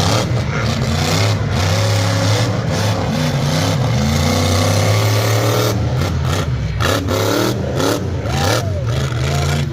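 Big truck engine revving hard and continuously, its pitch rising and falling as the throttle is worked.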